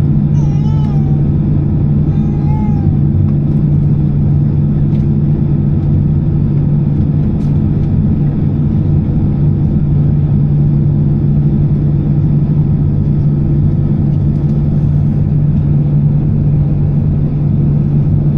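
Steady cabin drone inside an Airbus A320-214, from its CFM56 engines and the airflow, with an even, unchanging level.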